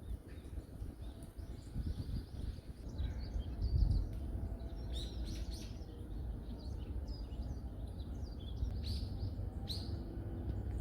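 Small songbirds chirping in a forest: many short, high chirps, busiest about halfway through and again near the end, over a steady low rumble.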